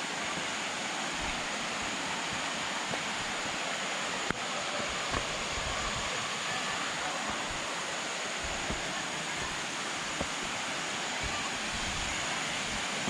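Waterfall water rushing and splashing in a steady, even roar, with a single sharp click about four seconds in.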